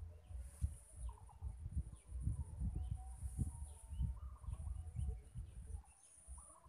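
Birds calling and chirping, with short chirps scattered throughout and a longer drawn-out call in the middle, over an uneven low rumbling noise and a steady high hiss.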